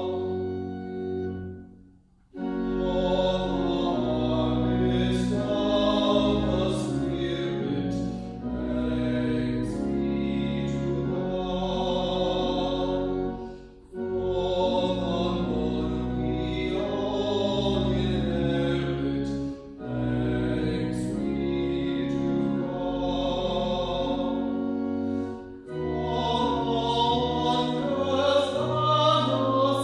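Choral singing of a sacred piece with sustained low accompaniment, in phrases about six seconds long, each separated by a brief pause.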